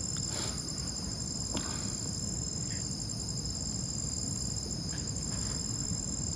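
Crickets chirring steadily at night in two unbroken high-pitched bands with a fine rapid pulse, over a low rumbling background.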